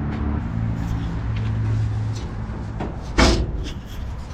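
A car door being shut with a single loud thump about three seconds in, followed by a few light clicks. Before it, a low engine hum from a vehicle fades out after about two seconds.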